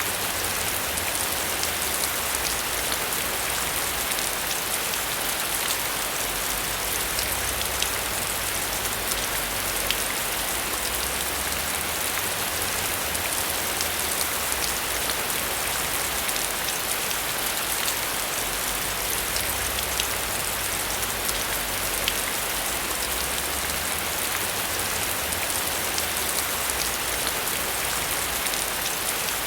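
Heavy rain falling steadily, with many sharper individual drop ticks scattered through it.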